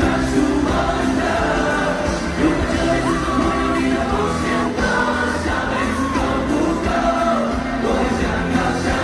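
Live pop music: a band with singing voices carrying a melody, the sound of a concert.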